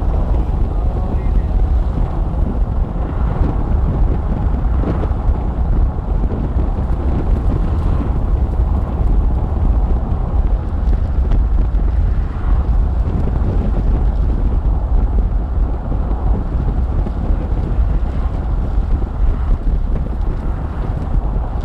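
Wind buffeting the microphone: a steady low rumble with a hiss of gusting air over it.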